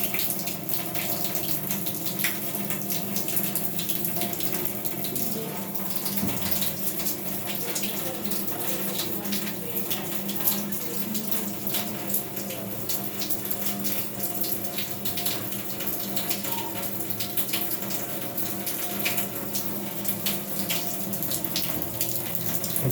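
Water running steadily from a tap into a sink, with small splashes throughout.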